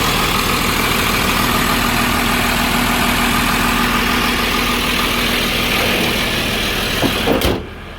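Cummins 5.9-litre 12-valve turbo diesel in a Chevy C30 truck running steadily with a loud rushing hiss, while it clears rainwater out of the exhaust. The sound drops sharply about seven and a half seconds in.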